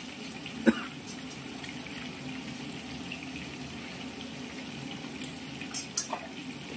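Fish heads frying in oil in a stainless-steel wok: a steady sizzle with scattered sharp pops of spitting oil, the loudest a little under a second in and a few more near the end.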